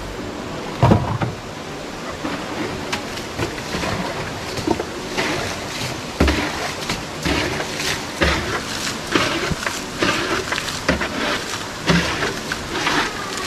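Water splashing and sloshing in irregular strokes over a steady rush, denser from about five seconds in.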